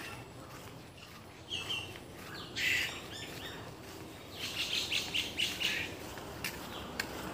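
Birds chirping: a couple of short calls, then a quick run of chirps lasting over a second midway, over a faint steady outdoor background.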